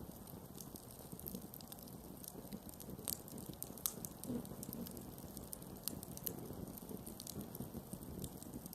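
Campfire crackling: irregular small pops and snaps of burning wood over a low steady hiss of the flames, with two sharper pops about three and four seconds in.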